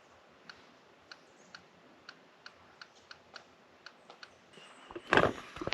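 Short electronic key clicks from tapping in a search on a GPS navigator's touchscreen, about two a second and unevenly spaced. Near the end a much louder noise breaks in.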